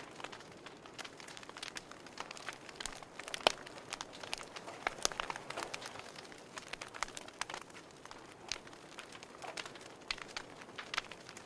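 Wood fire crackling in a fireplace: irregular sharp pops and snaps over a faint hiss of burning, with one louder pop about three and a half seconds in.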